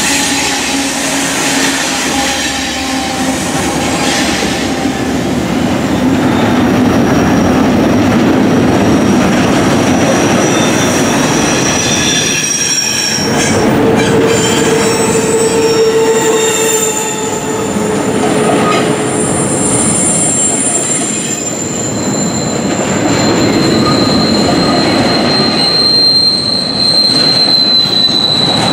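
Freight train passing close by: the locomotive goes by first, then well cars loaded with garbage containers, with a steady loud rumble and clatter of wheels on rail. High-pitched wheel squeal comes and goes over it, with a long squeal near the end.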